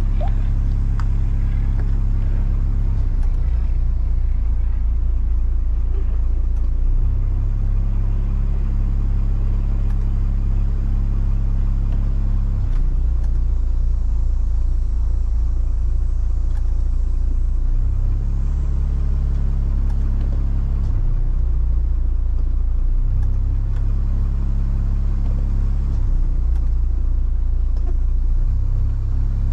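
Trawler's engine running with a deep, steady rumble under way in strong wind, its low rumble shifting in strength every few seconds.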